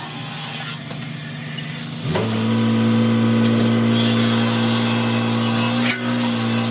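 A machine motor starting up about two seconds in, quickly rising in pitch and then running at a steady, even pitch with a loud hum, over a lower hum and a few clicks before it.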